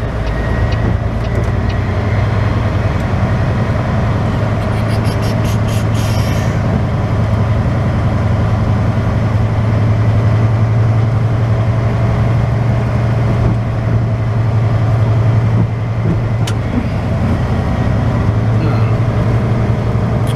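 Diesel semi-truck engine running steadily at low speed, a deep even hum. About five seconds in there is a brief high rattling hiss, and a single sharp click later on.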